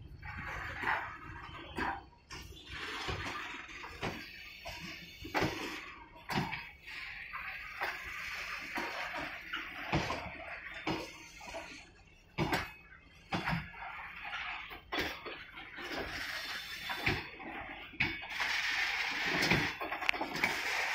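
Loaded BCNA covered freight wagons rolling slowly past, with irregular metallic clanks and knocks from the wheels and running gear over a steady hissing rumble of wheels on rail, which grows louder near the end.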